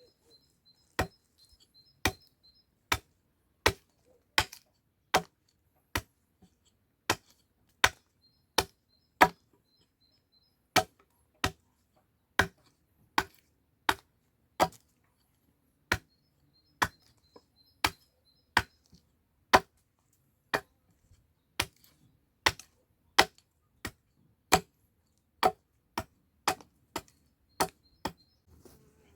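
Wood being chopped by hand with an axe-type blade: steady sharp strikes, a little over one a second, some louder than others.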